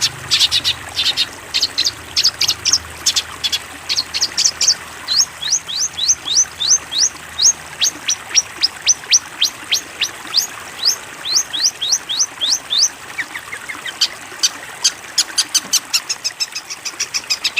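A songbird giving a long run of sharp, rising chirps, several a second, with a short pause and a brief lower trill about three-quarters through, then a faster run of chirps near the end.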